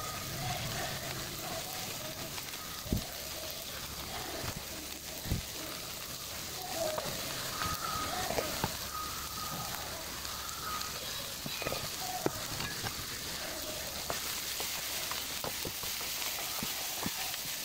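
Tofu cubes, onion and green chilies sizzling steadily in oil in a nonstick frying pan, with a few sharp clicks and, near the end, a spatula stirring through the pan.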